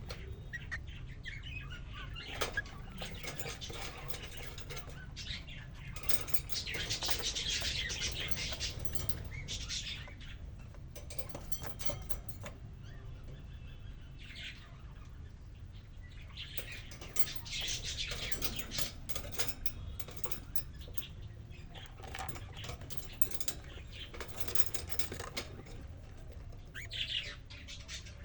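Cockatiel chirping and warbling in bouts, the busiest stretches in the first half and again a little past the middle, over a steady low hum.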